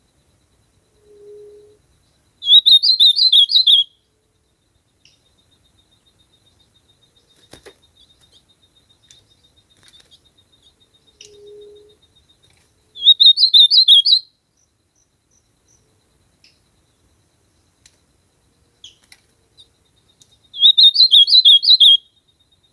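Ultramarine grosbeak (azulão) singing: three short, fast warbled phrases, each about a second and a half long and spaced several seconds apart.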